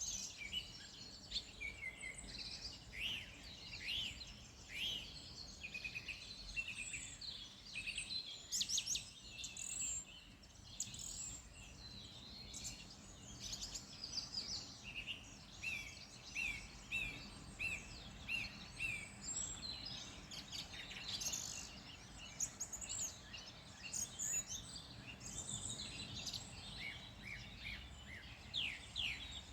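Several wild birds singing and calling at once, with short chirps and quick sliding notes overlapping; about halfway through, one bird repeats a single note a couple of times a second for several seconds. A low steady rumble runs underneath.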